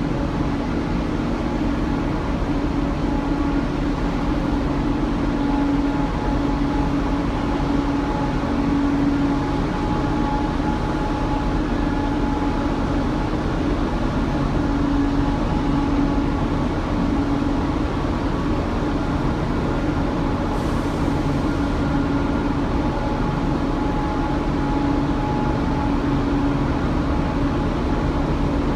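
Steady drone of a large car ferry's machinery heard on board, a constant hum with a few held tones over a low rumble.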